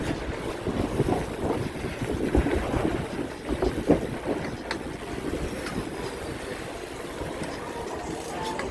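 Wind buffeting the microphone and rumbling road noise from riding a bicycle, with a few brief knocks.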